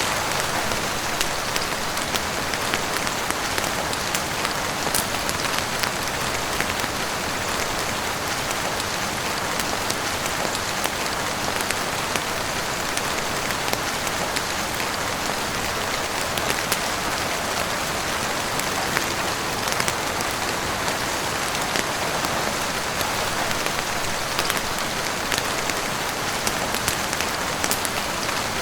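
Steady heavy rain falling on a roof and windows, with scattered sharp clicks throughout.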